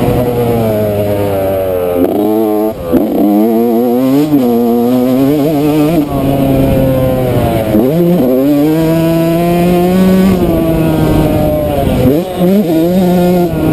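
Yamaha YZ125 two-stroke motocross engine under hard throttle. The revs climb and fall over and over, with sharp drops about three, eight and twelve seconds in.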